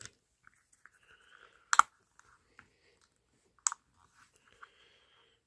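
Small plastic toy parts being handled: two sharp plastic clicks about two seconds apart, with faint rubbing and fiddling between them, as a Playmobil wheel hub is worked into a thick rubber tire.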